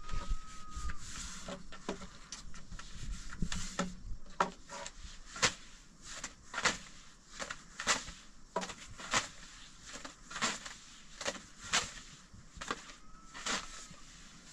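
A series of sharp knocks or strikes, about one every second, starting a few seconds in. A faint short whistle-like tone is heard at the start and again near the end.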